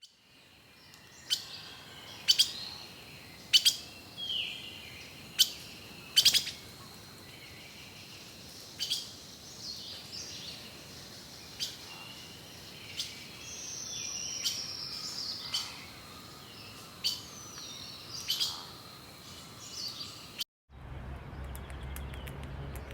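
Birds chirping and calling: sharp chirps repeated every second or so over a thin, steady high note, with a falling whistle midway. The bird sound cuts off suddenly near the end and gives way to a low, steady sound.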